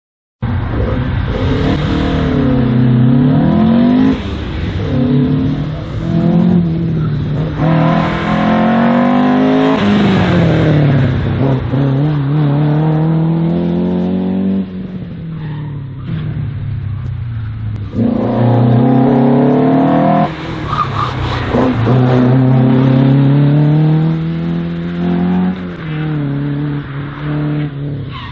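A race car's engine on an autoslalom run, revving hard and easing off again and again. Its pitch climbs and drops every few seconds as the car accelerates and slows between the cones. The sound starts suddenly about half a second in.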